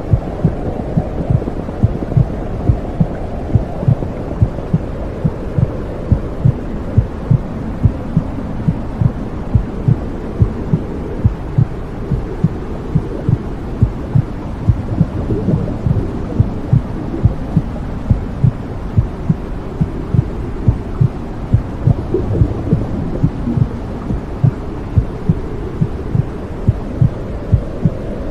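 Womb sound: a steady low whooshing rumble with a regular heartbeat pulsing through it.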